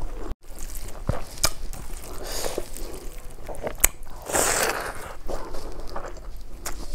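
Close-miked chewing and lip smacking of a mouthful of rice eaten by hand, with a few sharp wet mouth clicks.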